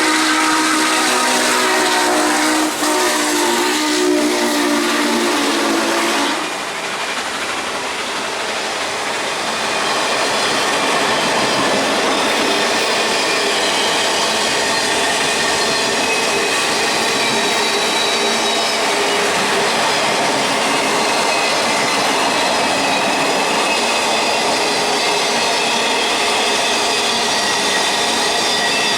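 Norfolk & Western J-class 4-8-4 steam locomotive #611's chime whistle blowing, a chord of several steady tones that cuts off about six seconds in. Then the train rolls past, a steady rumble and clatter of passenger cars on the rails.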